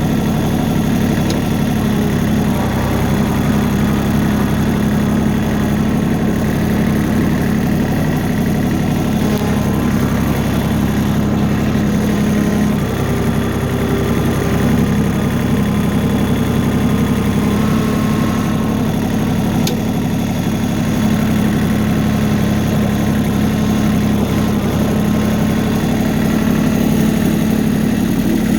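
Tractor engine running at a steady speed, a constant low hum with only slight shifts in tone.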